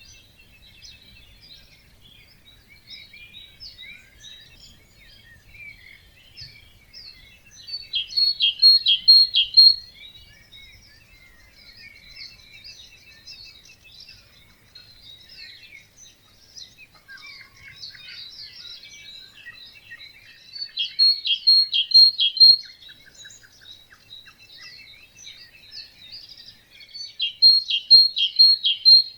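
Dawn chorus of many songbirds singing at once, with one close bird repeating a loud short song of several quick notes three times, about 8, 21 and 27 seconds in.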